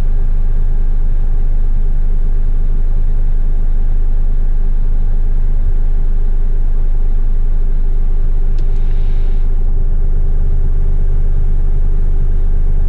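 Heavy rigid truck's diesel engine running steadily, heard from inside the cab, with a short hiss about nine seconds in.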